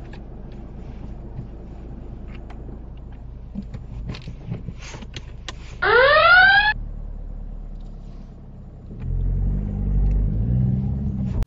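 Car engine idling while stopped, a low steady rumble heard from inside the car. About six seconds in, a loud whistle-like tone sweeps upward for under a second. Near the end the engine note rises as the car pulls away.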